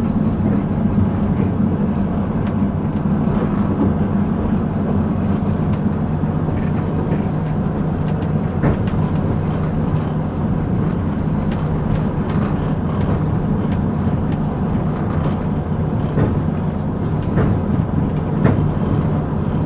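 Passenger train running, heard from inside the carriage: a steady low rumble with scattered faint clicks and knocks.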